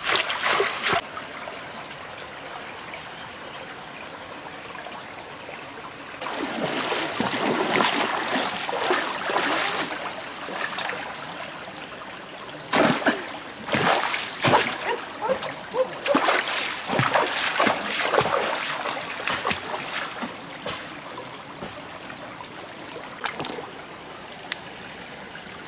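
Stream water running with a steady rush, broken twice by longer spells of irregular splashing.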